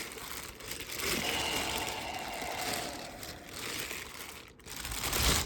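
Crinkling and rustling of something being handled, with a short lull a little after four seconds and a louder patch near the end.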